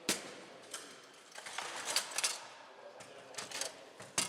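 Foosball play on a Bonzini table: irregular sharp knocks of the ball striking the players and the table walls, with the sharpest right at the start and near the end.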